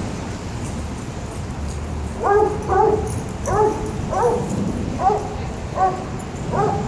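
A dog barking in a run of about seven short, high barks, starting about two seconds in and coming a little more than one a second.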